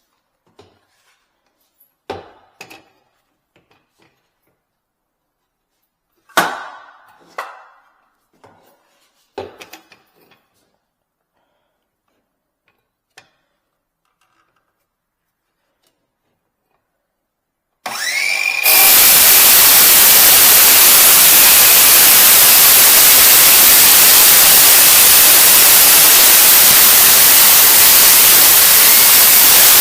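A few scattered knocks and clicks of tools being handled, then about 18 s in a cordless circular saw spins up with a short rising whine and runs steadily and loudly, cutting the countertop.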